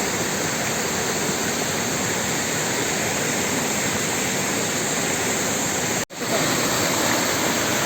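Steady rush of a waterfall, a dense even roar of falling water. It drops out for an instant about six seconds in, then resumes at the same level.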